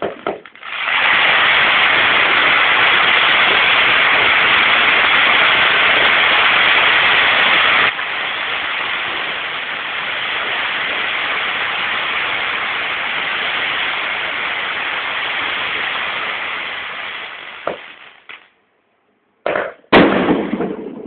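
Firework fountain (a 'cachoeira' waterfall firework) spraying sparks with a loud, steady hiss. It drops in level about eight seconds in and dies away near the end, followed by a few sharp bangs.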